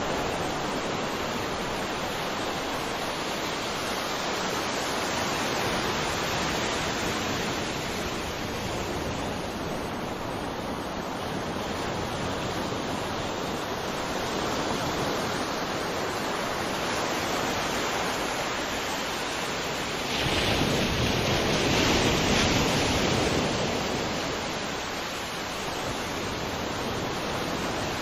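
Sea waves washing on the shore in a continuous rushing wash, with one louder wave breaking about twenty seconds in and then receding.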